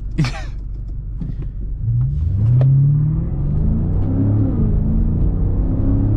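BMW M5 Competition's twin-turbo V8 running under way, its note rising as the car accelerates about two seconds in and then holding with small rises and falls. A brief vocal exclamation right at the start.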